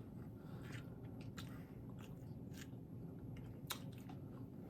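Faint chewing and biting of crispy tostadas, with a few sharp crunches spread out.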